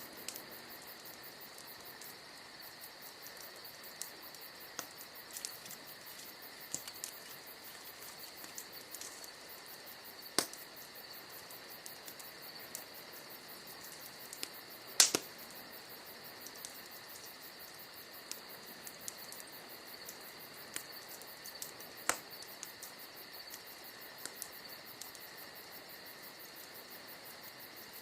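Wood fire crackling with scattered sharp pops, the loudest about halfway through, over a steady high chirring of insects.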